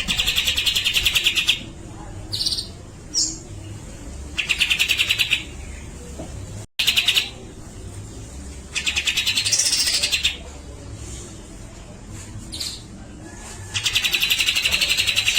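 Cucak jenggot (grey-cheeked bulbul) calling: four long bursts of rapid, harsh rattling chatter, each about a second to a second and a half, with short single notes between them. The sound drops out for an instant a little before halfway.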